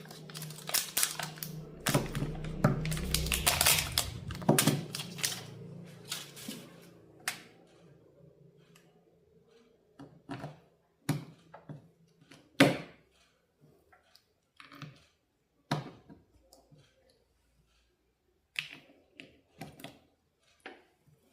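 Quick clicking and tapping of small hard parts being handled, over a low hum during the first half, then scattered single clicks and knocks.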